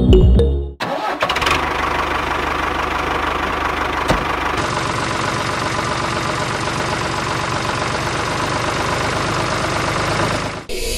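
Small electric motor of a homemade mini flour mill running steadily with a dense whirring rattle; it starts about a second in and stops just before the end, with one sharp click about four seconds in.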